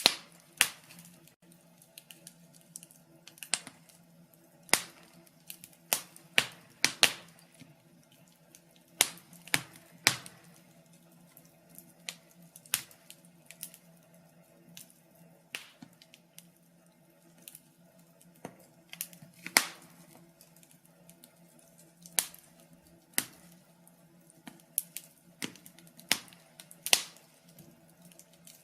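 Wood fire crackling, with sharp pops and snaps at irregular intervals, some much louder than others.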